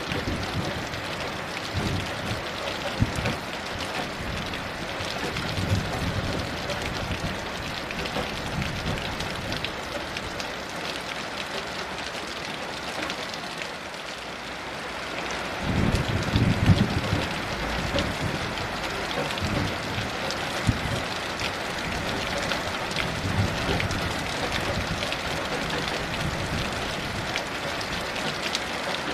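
Steady heavy rain falling, with scattered close drops, and low rumbles of distant thunder a few times; the loudest rumble comes about sixteen seconds in.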